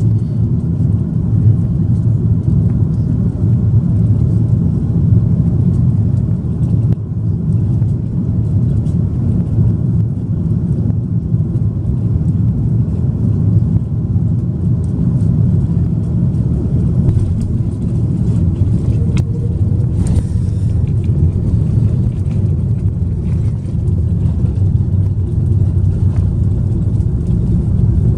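Steady low rumble of an Airbus A330-300 cabin as the airliner rolls on the ground after landing.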